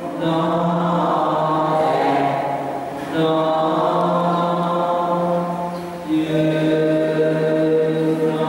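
Slow chanting in long, held notes, in phrases of about three seconds with a short break between each.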